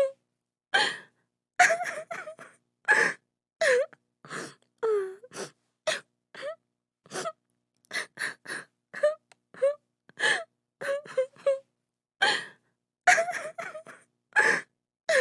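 A woman crying: a continuous run of short, separate sobs and gasping breaths, about two a second, some with a falling whimpering pitch.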